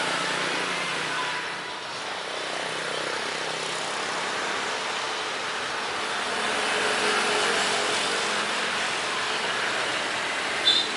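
Steady rushing jet-engine noise of an airliner on approach, swelling a little midway, with a brief high chirp near the end.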